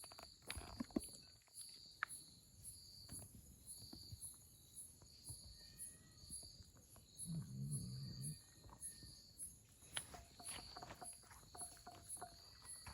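Faint insects chirping in an even, repeating pulse. Scattered small clicks and a brief low rumble come about halfway through.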